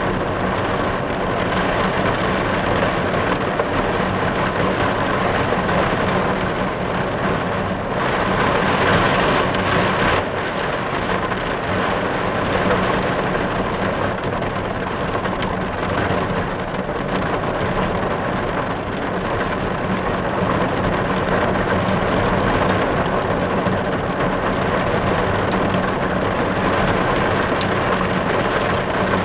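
Steady rain falling on a car's roof and windows, heard from inside the car, a little heavier about eight seconds in.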